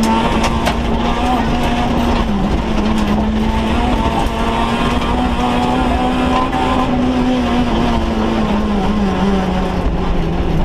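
Rally car engine heard from inside the cabin, running hard at fairly steady revs, with a brief dip about two seconds in and the revs sinking slowly near the end, over a heavy road rumble. A few sharp clicks come in the first second.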